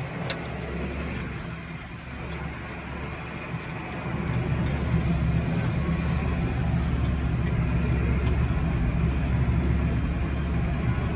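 Tractor engine running steadily, a low drone that grows louder about four seconds in.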